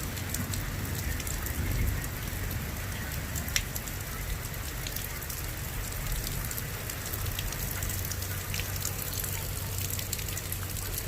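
Steady thunderstorm rain, with many separate drops ticking on a surface and one sharper drop tick about three and a half seconds in. A low steady hum runs underneath.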